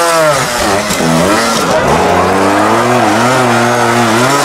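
Trials motorcycle engine revving. The pitch rises and falls at first, dips twice, then holds at a fairly steady rev with small wobbles as the rider feathers the throttle.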